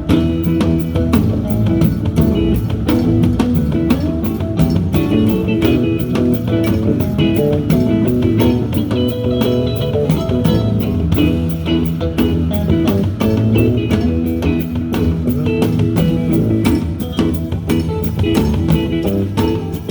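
Live band playing: guitar over a drum kit keeping a steady beat.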